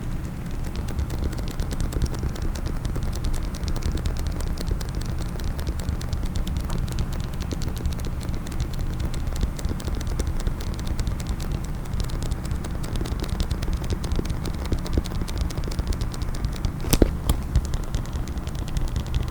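Fast tapping on a case: a dense run of small clicks with a low rumble underneath, and one sharper, louder click near the end.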